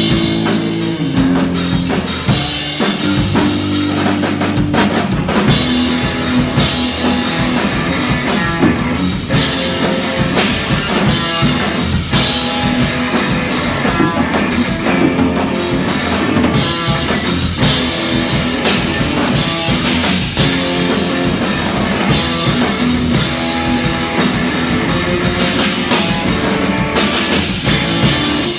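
Rock band playing live: drum kit, bass and electric guitar. The first few seconds are mostly drums and bass, then the full band comes in.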